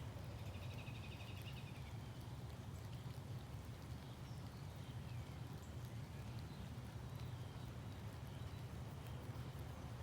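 Outdoor morning ambience: a steady low rumble with faint bird calls above it, including a short rapid trill about a second in.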